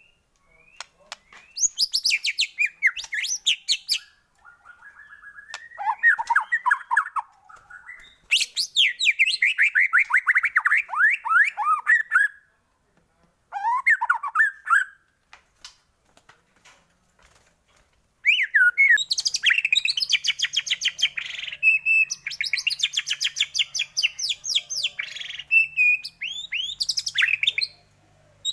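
White-rumped shama (murai batu) singing in loud bursts of rapid chattering and trilled phrases, with short pauses between them. The longest run of fast repeated notes comes in the second half.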